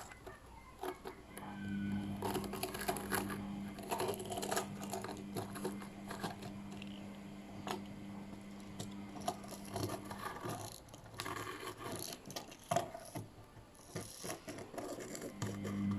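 A small motor hums steadily, stops about ten seconds in and starts again near the end, with scraping and clattering throughout.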